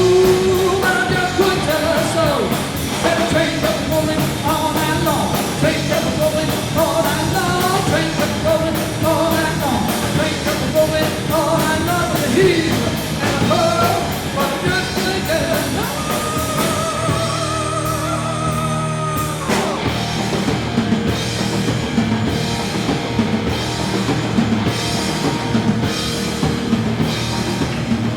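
Live rock band playing with a lead vocal; the singing ends on a long held note about two-thirds of the way through, and the band plays on without vocals.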